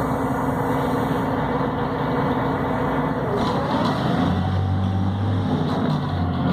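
Volvo B7RLE bus's diesel engine running, heard from inside the bus while it drives. About three and a half seconds in, the engine note changes and a deeper hum comes in.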